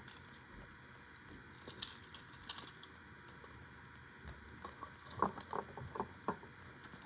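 Scattered light clicks and taps of a small plastic toy and its packaging being handled, with a quick cluster of sharper clicks about five seconds in.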